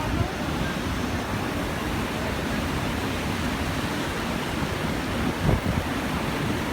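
Floodwater rushing steadily, heard as a continuous even noise. There is a brief low thump about five and a half seconds in.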